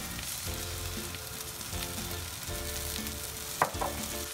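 Diced eggplant and chili garlic sauce sizzling in oil in a hot frying pan, with a single sharp tap about three and a half seconds in.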